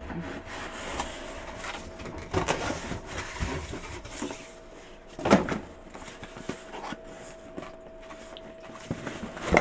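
Cardboard box and packing material of a new coffee maker being handled and pulled open: uneven rustling and scraping, with one louder scrape or knock about five seconds in.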